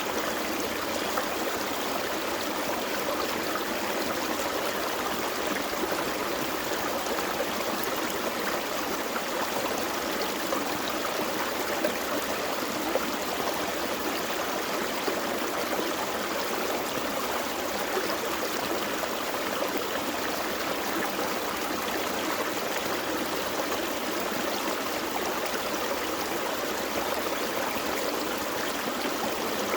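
Gentle forest creek flowing over rocks: a steady rush of running water with small splashes and trickles.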